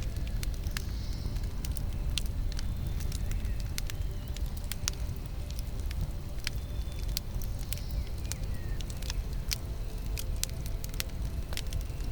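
Campfire burning: a steady low rumble of flames with frequent sharp, irregular crackles and pops.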